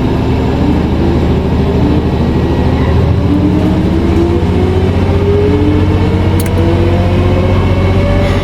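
Car engine sound effect: a steady, loud engine note whose pitch climbs slowly as the car accelerates, then cuts off suddenly at the end.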